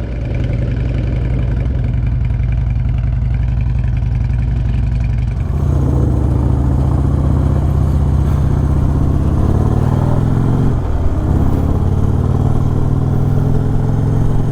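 V-twin motorcycle engines running. The engine sound shifts about five seconds in, and near ten seconds in the engine pitch falls and then rises again, as with a throttle change or gear shift.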